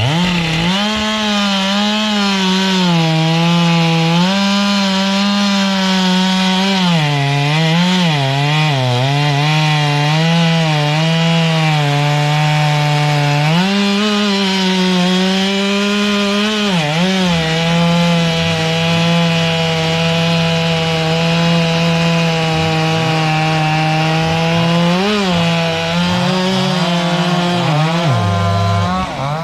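Two-stroke chainsaw running near full throttle, cutting into wood. Its pitch dips briefly several times as the chain loads in the cut, then recovers.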